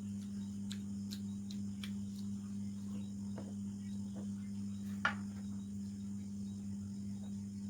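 Eating sounds: soft chewing and mouth clicks, with one sharper click about five seconds in. Under them run a steady low electrical hum and a high, even insect chirring, like crickets.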